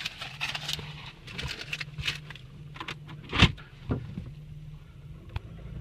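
A 2008 Saturn Aura idling with a low steady hum, heard from inside the cabin, over scattered clicks and handling knocks, with one sharper knock about three and a half seconds in.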